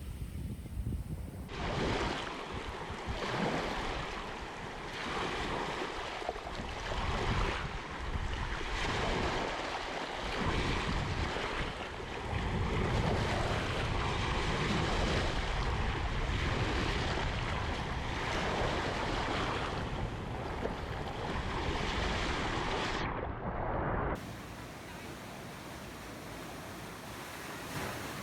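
Ocean surf: waves breaking and washing on a shore, a continuous rush that swells and eases every second or two. About four seconds before the end it drops abruptly to a quieter, steadier wash.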